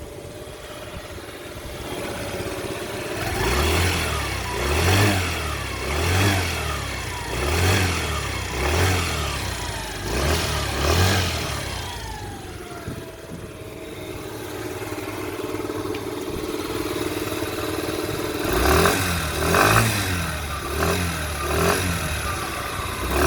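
Kymco People S 50cc scooter engine idling, then blipped about seven times in quick succession, each rev rising and falling back, before settling to idle. A second series of quick blips starts near the end.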